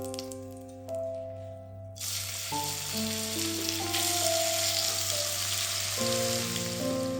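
Food sizzling in hot oil in a frying pan, starting about two seconds in, over background music with held piano-like notes.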